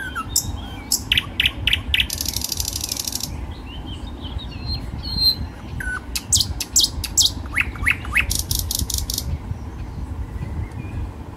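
Small birds chirping and calling, with a fast buzzy trill about two seconds in and bursts of chirps later on, dying down near the end; a steady low rumble underneath.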